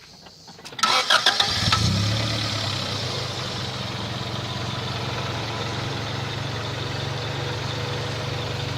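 1993 Acura Integra's four-cylinder engine cranked by the starter and catching about a second in. It flares up briefly, then settles into a steady, quiet idle.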